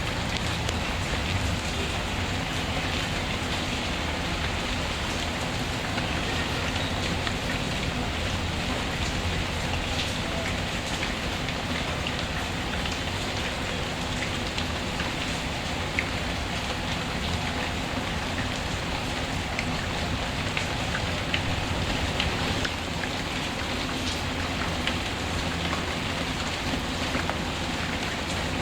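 Steady rain falling, with scattered small sharp pops and crackles from a wood fire.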